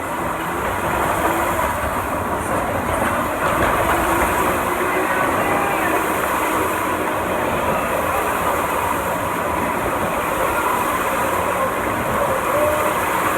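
Ride vehicle running along its rails, a loud steady noise of wheels on track with a few faint short squeals.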